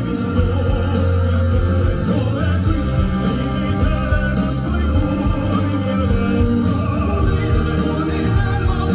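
Live amplified music from a band with a steady heavy bass, with a male crossover vocal group singing sustained lines with vibrato over it.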